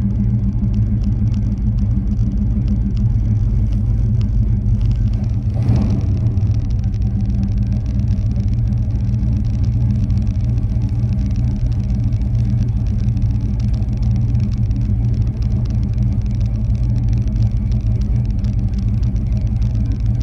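Chevrolet Chevelle's engine idling steadily, a deep even rumble heard from inside the cabin.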